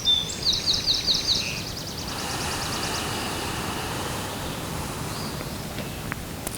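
A songbird singing a quick run of high, slurred notes that turns into a fast trill, over a low outdoor rumble. After about two seconds a steady rushing hiss, like wind through leaves, takes over.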